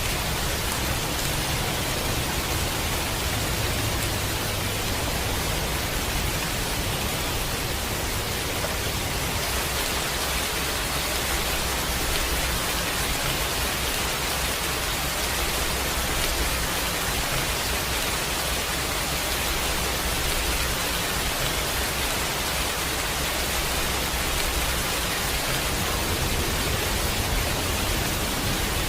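Steady rain, a dense even hiss, with a low rumble that comes and goes beneath it.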